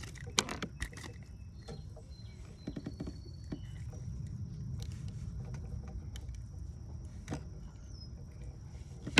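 A steady low rumble with scattered light clicks and taps, and a faint steady high tone.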